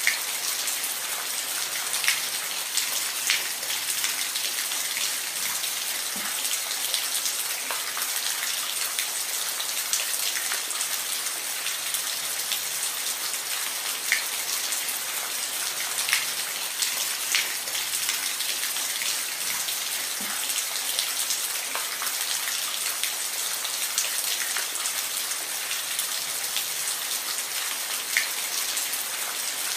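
Steady rain falling, a continuous hiss with individual drops pattering sharply on a hard surface every second or so.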